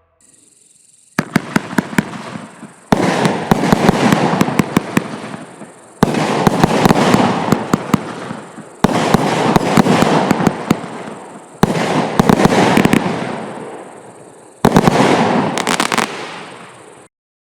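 Night Hawk consumer firework going off in six volleys about three seconds apart. Each volley is a burst of sharp cracks followed by a fading crackle.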